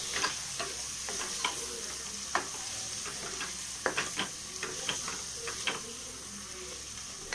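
Coriander and mint leaves sautéing in hot oil in a pressure cooker with a steady sizzle. A wooden spatula stirring them gives irregular scrapes and taps against the pot.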